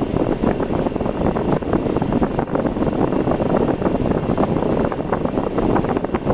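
A car driving along a road: a steady rumble of road and engine noise, with a dense, fluttering roar like wind buffeting the microphone.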